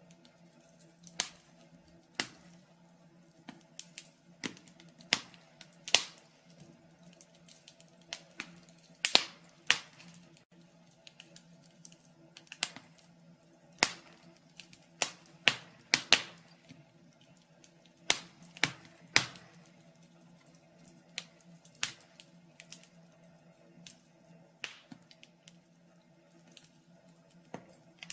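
Wood fire in a fireplace crackling, with sharp pops and snaps coming irregularly, about one a second, a few much louder than the rest. A faint steady low hum runs underneath.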